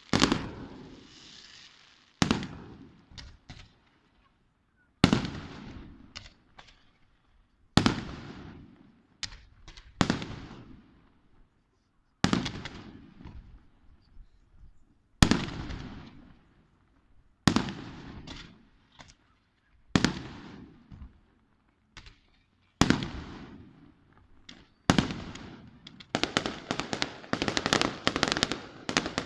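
Aerial fireworks shells bursting with single loud bangs every two to three seconds, each echoing away. Near the end they give way to a rapid volley of many bangs close together.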